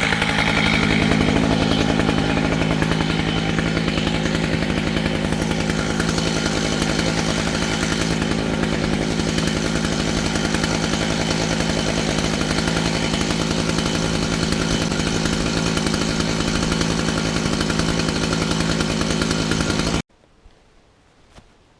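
Two-stroke chainsaw running steadily under load while milling a red oak log lengthwise. The sound cuts off suddenly near the end.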